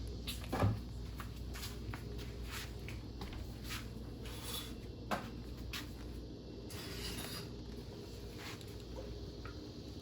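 Scattered light knocks and clicks of hand work on a stern drive being fitted to a boat, with a duller thump about half a second in, over a low steady hum.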